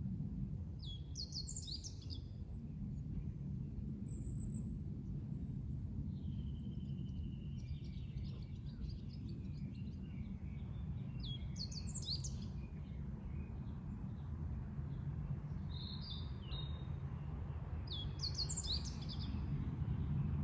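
A songbird sings the same short phrase of quick high notes three times, with other birds chirping in between, over a steady low wash of lake waves.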